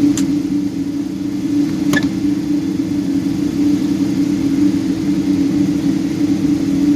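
Boeing 777-200 cabin noise in flight: the steady drone of the engines and airflow with a constant low hum. Two faint clicks come about two seconds apart.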